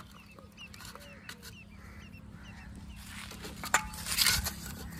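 A bird calling outdoors in a series of short repeated notes. Near the end come wet rubbing and sloshing in a steel bowl of water, with a sharp clink.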